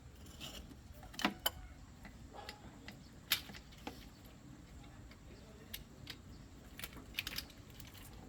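Scattered light clicks and taps of hand tools on metal during car repair work, the sharpest about three seconds in and a quick cluster near the end.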